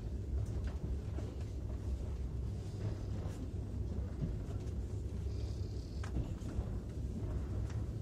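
Steady low rumble of a passenger train carriage rolling along the rails, heard from inside the car, with a few faint clicks.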